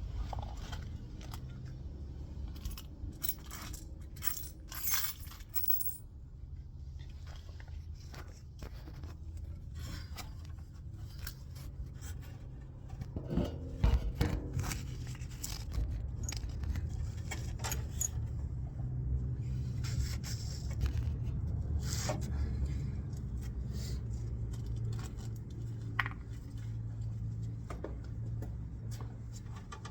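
Metal clinking and scraping of tools and parts being handled during an oil change, with a loud knock about halfway through. After the knock a low steady hum runs underneath.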